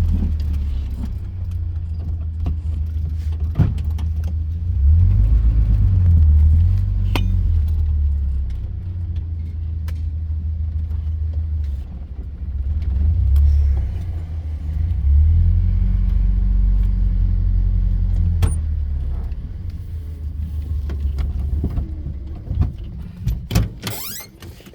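Off-road vehicle driving over rough ground: a steady low engine drone that swells and eases as the revs change, with rattles and sharp knocks from the bumpy ride. The engine sound drops away near the end.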